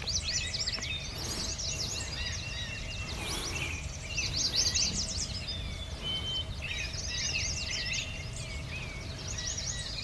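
Several songbirds singing over one another in a busy chorus of rapid chirps, sweeps and trills, with a steady low rumble beneath.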